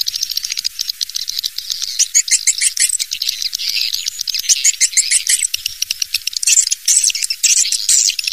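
Swiftlet calls played as a swiftlet lure track: a dense, continuous high-pitched twittering of rapid chirps and clicks, with no low sound at all.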